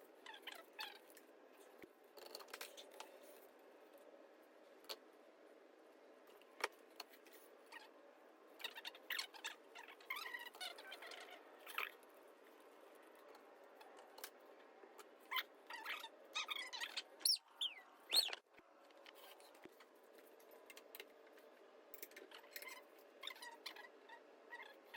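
Faint, irregular clicks and metallic clinks of hand tools and bolts as a KA24 engine is unbolted, with a few short squeaky chirps that glide in pitch, the loudest about two-thirds of the way through.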